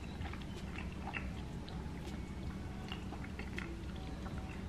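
Close-miked chewing of soft food, meatballs and mashed potatoes in gravy: faint wet mouth clicks and smacks scattered through.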